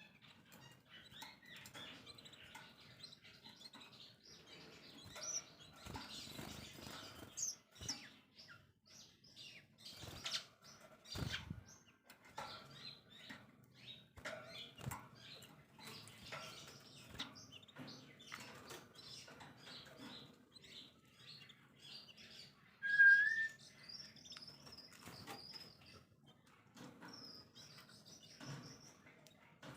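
Songbirds chirping and twittering, over many short clicks and flutters. A loud brief chirp comes about two-thirds of the way through, then a high, thin whistled note that repeats several times to the end.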